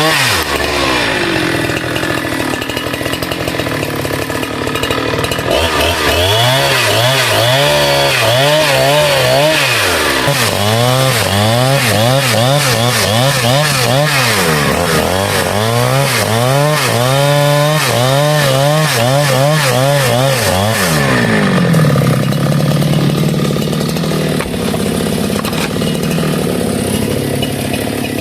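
Chainsaw running and cutting bamboo, its engine revving up and dropping back over and over, then holding a steadier note for the last few seconds.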